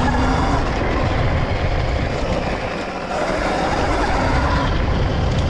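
Sur-Ron electric dirt bike being ridden round a dirt track, heard through wind rushing over the action camera's microphone and tyre noise, with a faint motor whine that rises and falls. The sound eases briefly about three seconds in.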